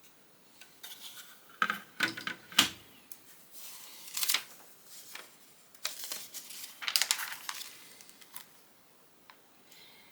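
Lego pieces being handled on a table: sharp plastic clicks and knocks as bricks are picked up and pressed together, with short rustles of pieces being sifted.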